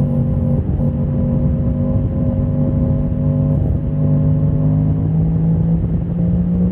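Motorcycle engine running at fairly steady revs, with small shifts in pitch about half a second and three and a half seconds in, and revs starting to climb near the end.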